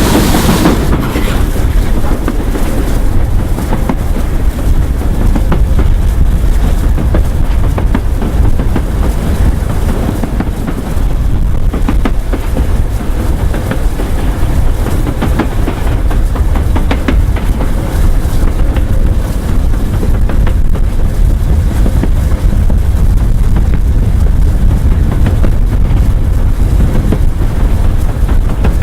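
Steam train running past with a loud, steady low rumble, following its whistle.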